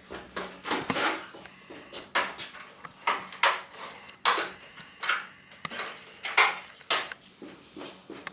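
Metal tools and parts being handled: irregular clinks, knocks and scrapes with no rhythm and no engine running.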